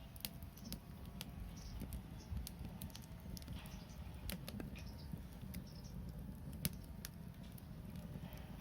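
Wood fire crackling, with irregular sharp pops and snaps (one louder pop near the end) over a steady low rumble.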